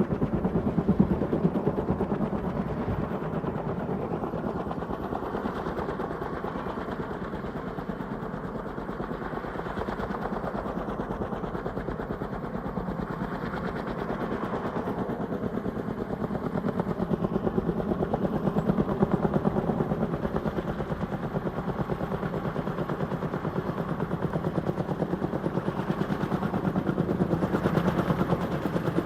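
Large helicopter's rotor blades beating in a fast, steady chop, swelling louder twice as the aircraft moves.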